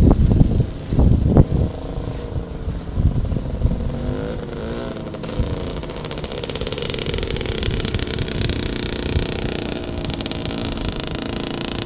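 Motorcycle engine running, its pitch rising and falling about four seconds in, then holding steady. There are low thumps in the first second or so.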